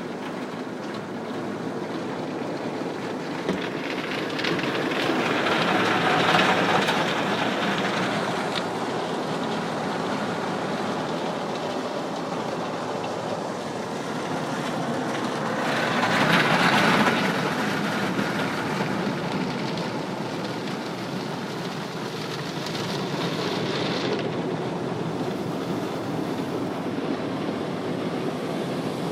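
Automatic car wash spraying and washing the car, heard from inside the car's cabin as a steady rushing wash noise that swells louder about six seconds in and again about seventeen seconds in, as the wash passes over the car.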